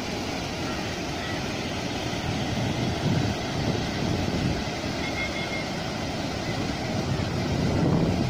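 Steady outdoor noise with wind buffeting the microphone, a low rumbling wash that swells slightly around three seconds in and near the end.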